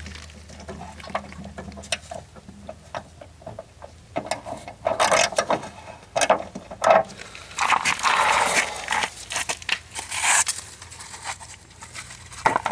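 Hand work on a lawn mower: scattered clicks and knocks of parts and tools being handled, with a stretch of scraping about eight seconds in and a sharper knock shortly after.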